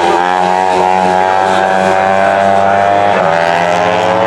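Racing superbike engines running hard at high revs, several engine notes at once, with the pitch drifting and one note climbing about three seconds in.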